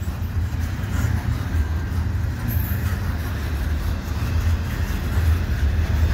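Freight train of double-stack container well cars rolling past: a steady low rumble of wheels on rail.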